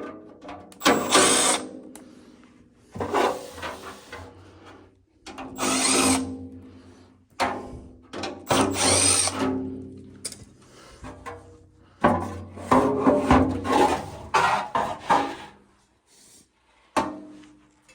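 Cordless power drill running in short bursts, each about a second long, several times over with pauses between.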